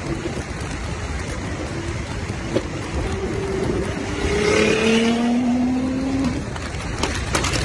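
Tuned Nissan GT-R R35's twin-turbo V6 accelerating hard, its engine note rising in pitch and growing loudest about four to five seconds in before falling away. A few sharp exhaust cracks come through a steady rush of noise.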